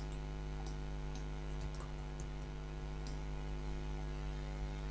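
Steady electrical mains hum picked up by the recording microphone, with a few faint, scattered clicks.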